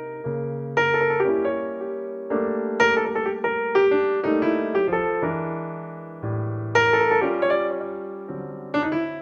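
Background piano music: a melody over chords, each note struck and fading.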